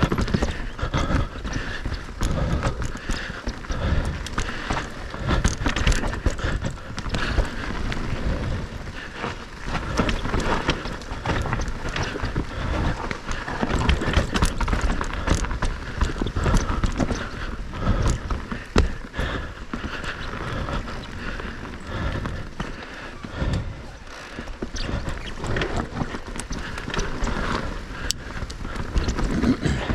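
Moustache Game 160 electric mountain bike ridden fast down a rough technical trail, with tyres rumbling over the dirt and constant knocking and rattling of the bike over bumps.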